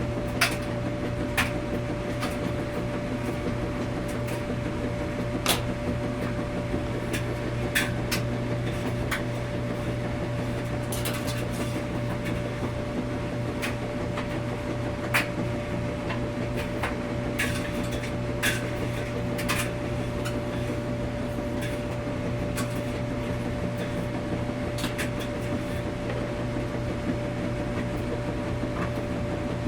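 Washing machine running with a steady low hum and a steady higher tone. Irregular sharp clicks and knocks come every few seconds.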